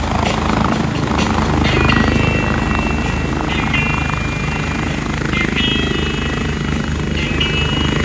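Helicopter running close by, its rotor making a steady, rapid low chopping beat under the engine noise. Short high-pitched tones come and go over it from about two seconds in.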